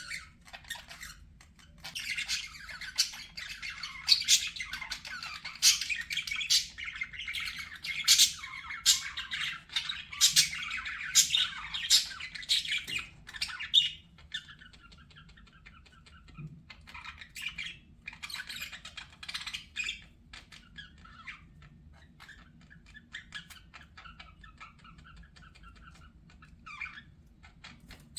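Budgerigars chattering and warbling, with many sharp, loud chirps and squawks packed together for the first half, then softer, sparser warbling.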